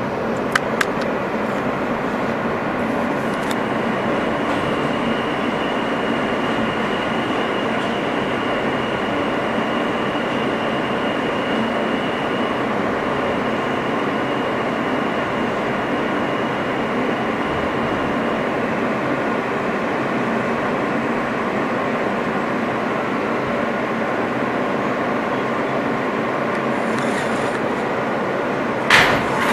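Steady noise inside an R160 subway car, with a thin high tone holding for about fifteen seconds in the middle. There are a couple of clicks about half a second in and a sharp, louder sound just before the end.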